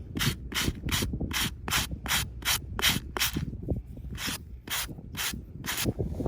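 Rhythmic scraping strokes, about two and a half a second, each a short rasp, stopping near the end; low wind rumble on the microphone underneath.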